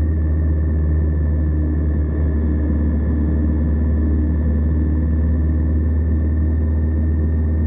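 Indian Scout V-twin motorcycle engine running steadily at a constant speed, heard from low on the crash bar near the engine, under a heavy, even rumble of wind and road. A faint, steady high whine sits above it.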